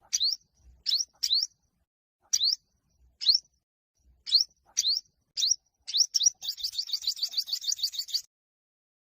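Olive-backed (yellow-bellied) sunbird singing: a string of short, sharp rising chirps spaced under a second apart, then a fast trill of about eight notes a second lasting nearly two seconds.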